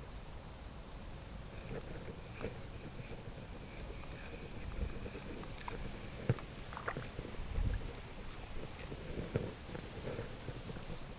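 Water sloshing on the river with scattered soft knocks over a low steady rumble, and faint high chirps.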